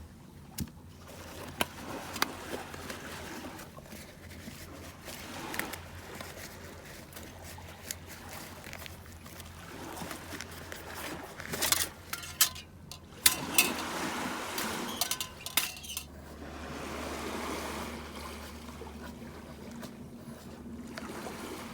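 Metal camping gear being handled and set out, with scattered light clinks and knocks. The loudest cluster of knocks comes a little past the middle.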